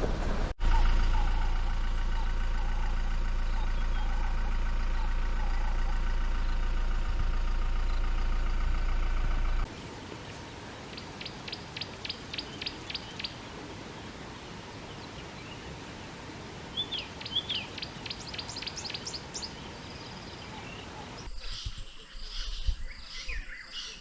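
Steady drone of a vehicle engine for about the first ten seconds, then cut off abruptly. Birds are heard calling after it, with short rapid trills twice and a busier mix of bird calls near the end.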